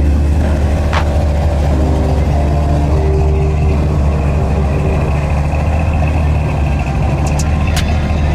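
Car and truck engines running steadily with a heavy low rumble and some shifting engine tones, at the level of a busy car meet.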